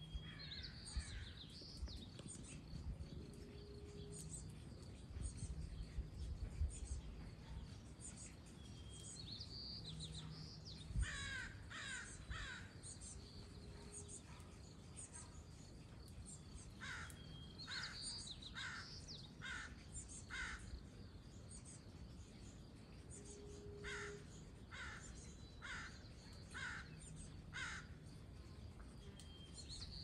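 Faint bird calls: a bird repeating a short falling call note in runs of four to seven, about one and a half notes a second, three runs in all, with a few higher chirps between.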